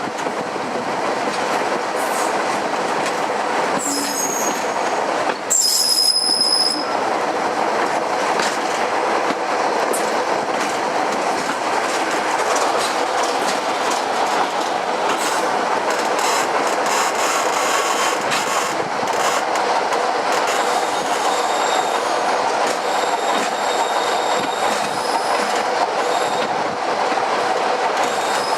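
Train running along the rails with a steady rumble of wheels on track. Brief high-pitched wheel squeals come about five seconds in, and fainter ones in the second half.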